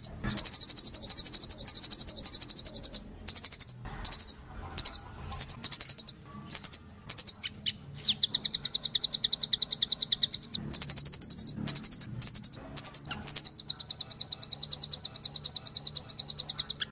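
Nuthatch (rambatan loreng) calling in rapid, high-pitched rattling trills. Long runs of fast repeated notes alternate with short bursts, and one quick falling note comes about halfway through.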